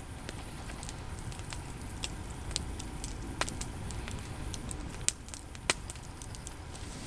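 Small campfire crackling, with scattered sharp pops of burning wood over a low steady rumble.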